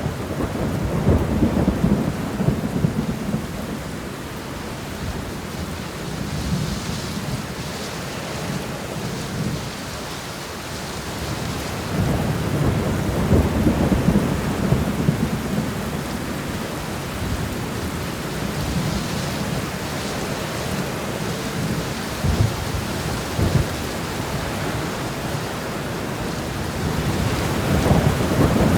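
Steady rain shower with low rolling rumbles of thunder that swell and fade three times.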